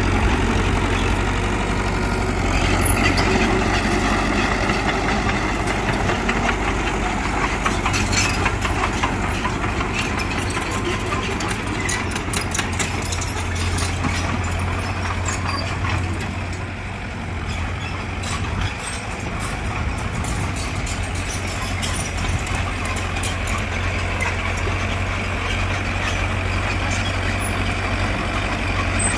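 Heavy diesel earthmoving machinery, a bulldozer working with a dump truck, running steadily with a low engine hum and scattered clicks and clanks. The engine sound drops briefly a little past halfway, then picks up again.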